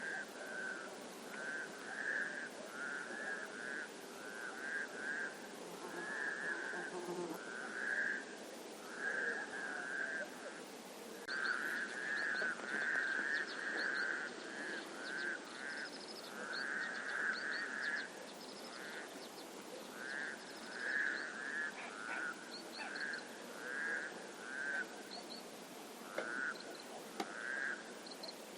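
A chorus of frogs croaking in short, repeated trilled calls, one after another with brief gaps. Faint high chirps join partway through.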